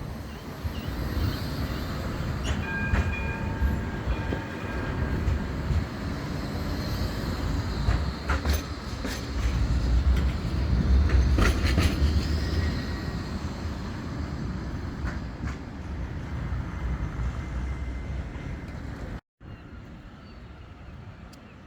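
Bombardier Flexity 2 tram running past, its rumble building to a peak and then fading. Its wheels click sharply over rail joints twice, and a few steady high tones sound early on.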